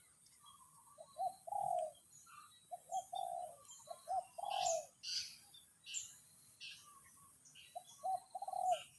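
A dove cooing in several short phrases of low hooting notes, with other small birds chirping in between and a steady high-pitched hum behind.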